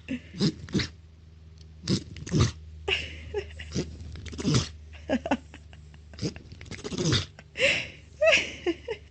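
A pet dog sneezing and snorting again and again, in short, sharp bursts often less than a second apart.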